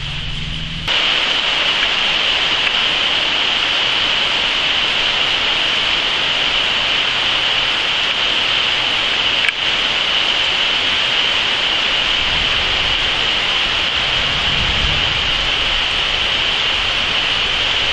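Steady rain falling, an even hiss that comes in suddenly about a second in, with a single sharp click a little past halfway.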